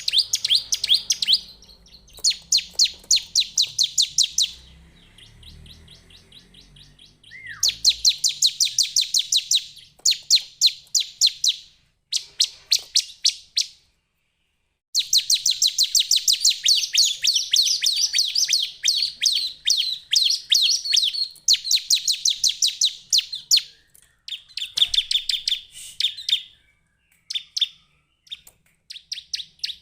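Bar-winged prinia calling: rapid runs of sharp, high-pitched chip notes, about ten a second, in bouts of a few seconds with short pauses between.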